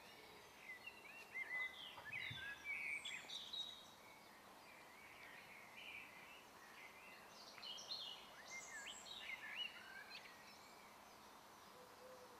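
Faint birdsong: songbirds giving quick, varied chirps and twitters in two spells, with a quieter stretch between them, over a faint steady background hiss.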